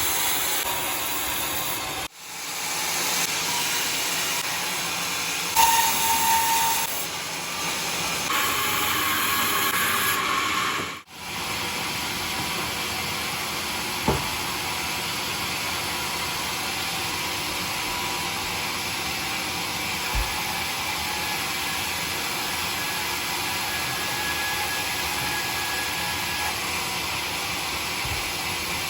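Homemade sawmill saw running steadily through a bayur log, a constant rushing noise that cuts out abruptly twice in the first half.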